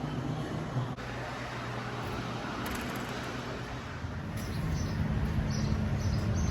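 Steady road-traffic noise with a low vehicle engine drone that grows louder about four to five seconds in.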